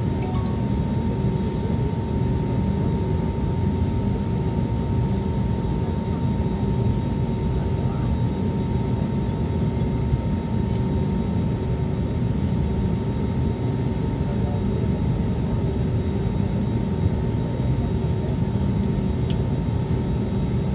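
Airbus A320neo heard from inside the passenger cabin: a steady engine and airflow rumble with a constant whine near 1 kHz, unchanging in level.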